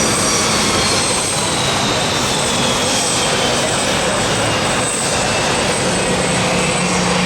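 Jet airliner engines running loud and steady, with a high whine that falls slowly in pitch.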